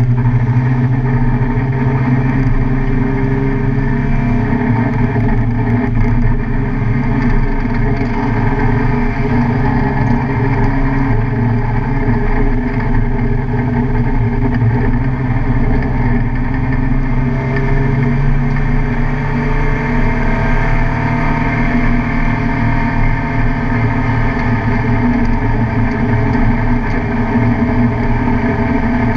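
Car engine running hard and steadily at speed on a race track, its pitch easing up and down slightly about two-thirds of the way through.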